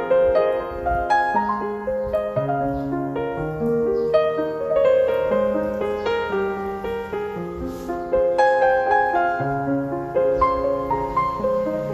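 Background piano music: a gentle melody of sustained notes over a moving bass line.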